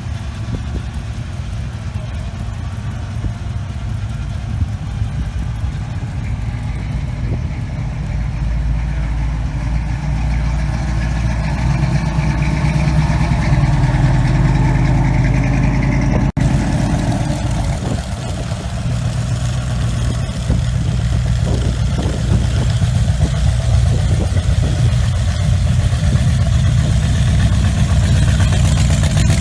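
High-performance muscle car engines idling and being revved, the low rumble building over the first half, then breaking off suddenly about halfway and giving way to a louder, uneven idle with throttle blips.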